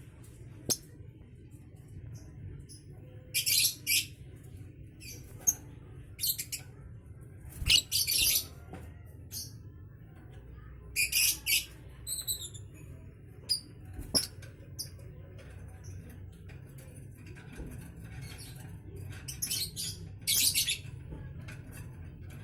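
Young lovebird, about two and a half months old, giving short shrill chirps in scattered bursts of one to three calls, the loudest near the middle and near the end.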